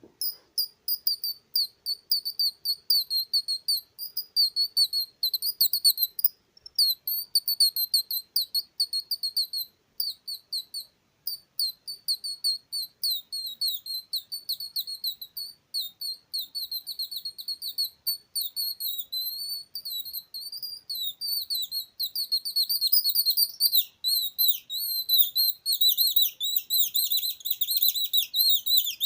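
High-pitched, bird-like whistled trills, blown through a metal nut (a 'nut trill'). The warbling runs in quick fluttering runs with short breaks and grows louder and denser over the last few seconds.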